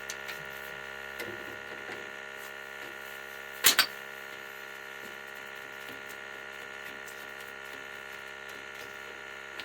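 Hand tools knocking on an oil burner assembly as it is unscrewed and taken apart: a few light clicks, then one sharp double knock a little under 4 s in, over a steady hum.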